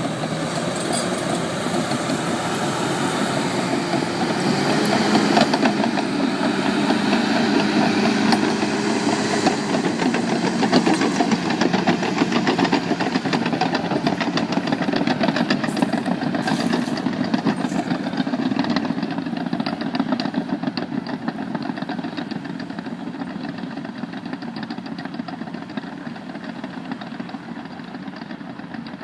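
Caterpillar D6 crawler tractor's diesel engine running steadily under load while ploughing. It is loudest a few seconds in and fades gradually over the second half.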